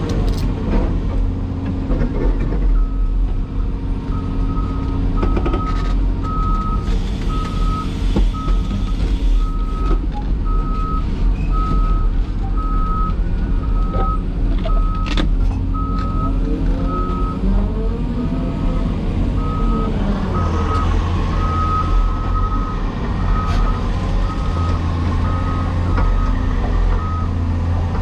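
Heavy diesel machinery running steadily, with a backup alarm beeping at an even pace, a little over once a second, from a few seconds in until near the end.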